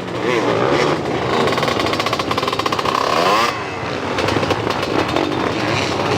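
Motocross dirt bike engines revving hard, their pitch rising and falling with the throttle. A high buzzing note holds steady for a couple of seconds and then climbs.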